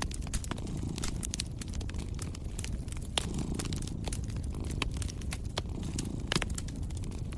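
Wood fire crackling in a fireplace, with scattered sharp pops, the loudest about three seconds in and just past six seconds. Under it, a cat purrs as a low rumble that swells and eases every couple of seconds.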